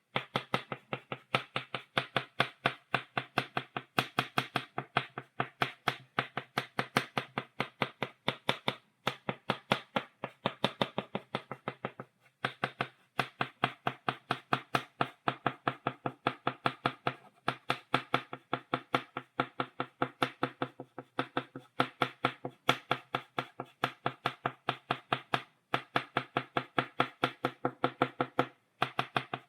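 Chalk tapping against a blackboard, dotting in quick, even taps several a second, in long runs broken by a few brief pauses.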